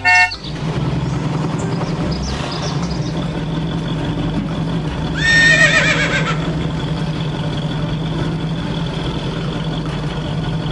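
A steady low engine-like drone runs throughout, and a little after five seconds in a horse whinnies once, for about a second, wavering and falling in pitch.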